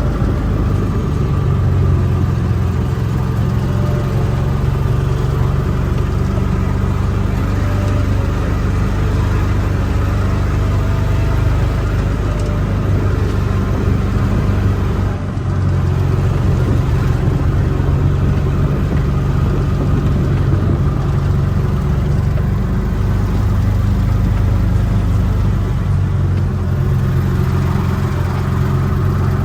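Motor vehicle engine running steadily on the move, with a brief dip in level about halfway through.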